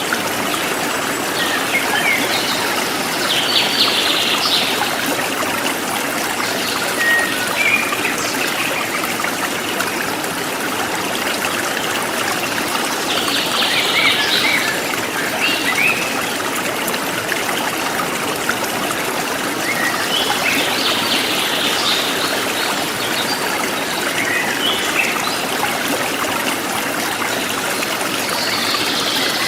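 A forest stream trickling steadily, with birds chirping over it in recurring bursts of quick calls.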